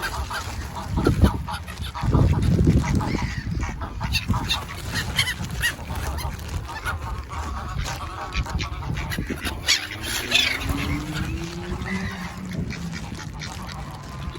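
Geese honking repeatedly, with other waterfowl calling among them.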